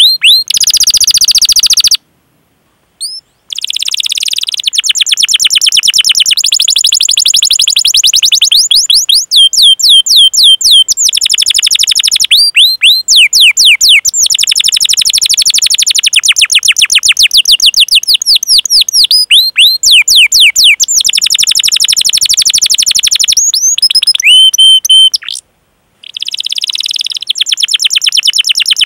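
Domestic canary singing long rolling trills ('ngerol'): fast runs of evenly repeated chirps, switching between different notes, with some sweeping whistled calls between them. The song breaks off briefly twice, about two seconds in and near the end.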